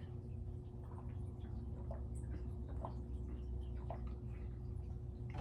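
Quiet room tone: a steady low hum with a few faint, short clicks scattered through it.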